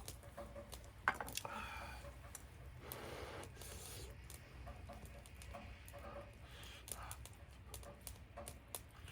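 Wood fire crackling: irregular sharp pops and ticks, one louder snap about a second in, over a low steady hum.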